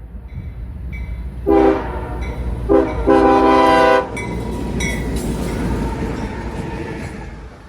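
Locomotive's Nathan K5HL five-chime air horn sounding two short blasts and then a longer one, over the low rumble of a light engine with no cars passing. The rumble fades near the end.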